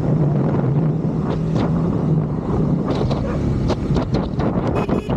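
Triumph Scrambler 400 X single-cylinder engine running steadily while riding, with wind rushing over the helmet-mounted microphone. A brief high-pitched tone sounds near the end.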